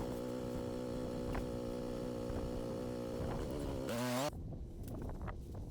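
ATV engine idling steadily, then revving up in a rising whine and cutting off abruptly a little after four seconds in. After that come irregular clicks and knocks.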